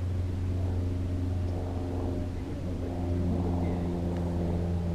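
A steady low motor-like hum with several overtones, one of them shifting up slightly about three seconds in.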